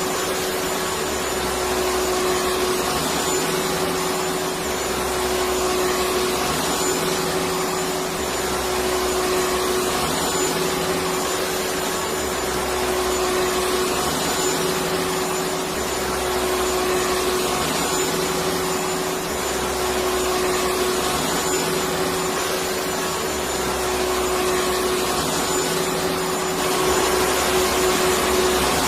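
Electric vacuum cleaner running steadily: an even rushing noise with a constant hum, and a low rumble that pulses about every two seconds. It grows slightly louder near the end.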